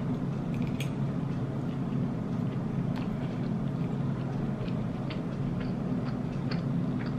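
A person chewing food, with a few light clicks of a metal fork against the food container, over a steady low hum.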